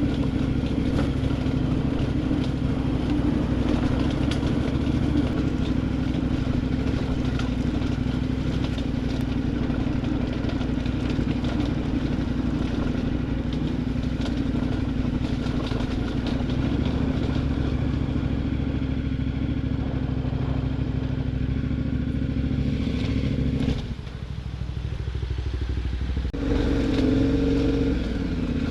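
KTM adventure motorcycle's V-twin engine running steadily at cruising speed. A little before the end the throttle closes and the engine note drops and falls in pitch, then picks up again louder as it is opened.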